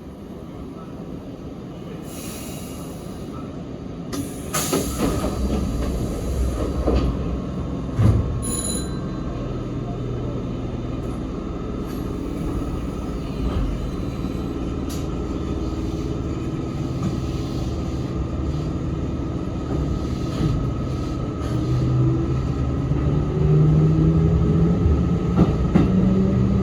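Sanyo Electric Railway 3050 series electric train heard from inside the car as it pulls away, with the hum of the traction motors and the noise of wheels on rails growing louder as it gathers speed. A few short knocks and hisses come in the first eight seconds, and a rising motor tone comes near the end.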